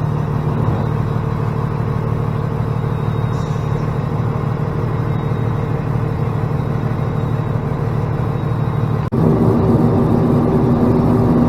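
Plow truck's diesel engine running steadily, heard from inside the cab. About nine seconds in it switches abruptly to a louder, steadier engine drone.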